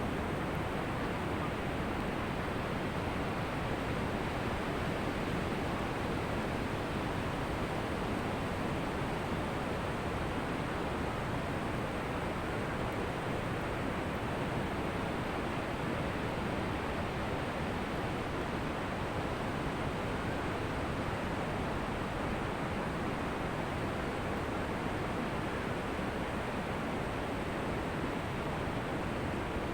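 Ocean surf on a beach: a steady rush of water, with no single crash standing out.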